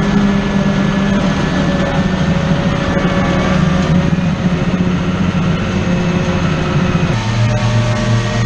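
Heavy farm machinery engine running steadily at working speed during silage harvesting; the engine note changes abruptly about seven seconds in.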